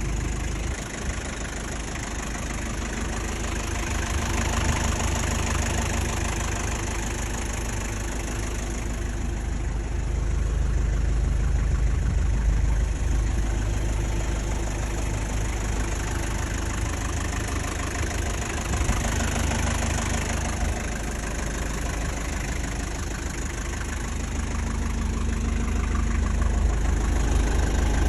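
Mazda Bongo Brawny's R2 four-cylinder diesel engine idling steadily, growing a little louder twice.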